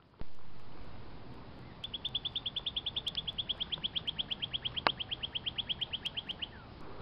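A bird singing one long, even trill of short high notes, about eight or nine a second, lasting some four and a half seconds. A single sharp click sounds partway through.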